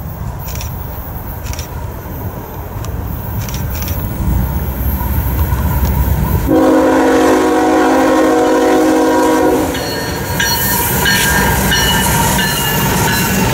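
Norfolk Southern diesel freight locomotives with a double-stack train. A low engine rumble builds as they approach, then the multi-chime air horn sounds for about three seconds. The rumble and rail noise of the passing locomotives follow, with brief high wheel squeals.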